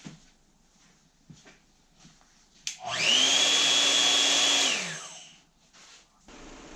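A hand-held power tool's electric motor winds up about three seconds in, runs at a steady high speed for about two seconds, then is switched off and winds down. A steady quieter hiss comes in near the end.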